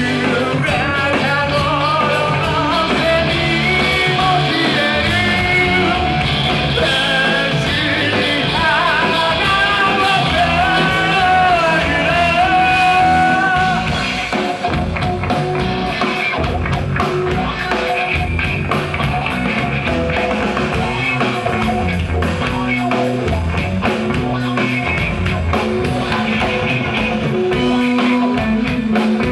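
Rock band playing live, with a singer's melody over guitar, bass and drums for the first half; about halfway through the singing drops out and the band carries on instrumentally.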